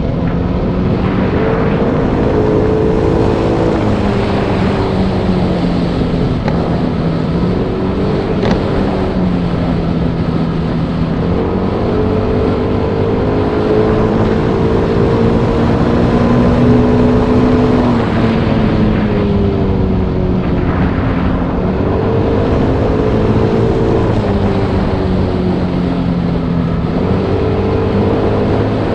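Motorbike engine running on the move, its pitch rising and falling every few seconds with throttle and gear changes, over a steady rushing noise.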